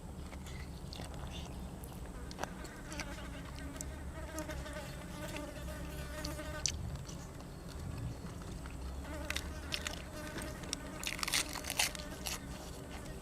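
A fly buzzing close by, in two spells, with crisp crunching and chewing clicks from eating near the end.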